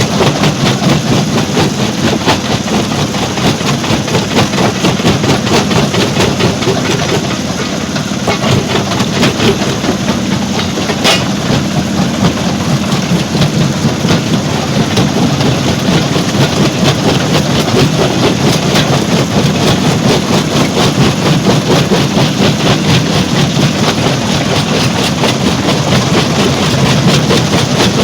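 Stone crusher machinery running, with a dense, continuous rattling clatter over a steady low hum and one sharper crack about eleven seconds in.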